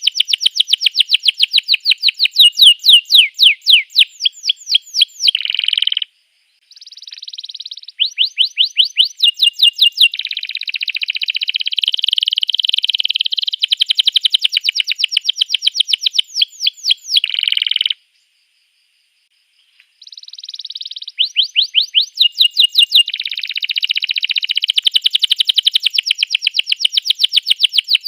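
Domestic canary singing: long runs of rapid, repeated high trills and rolls, broken by two short silences, one about six seconds in and one lasting about two seconds around two-thirds of the way through.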